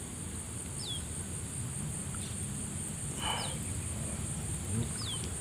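A bird repeats a short, high chirp that falls in pitch every second or two over a steady high-pitched insect drone. A brief burst of noise comes a little over three seconds in.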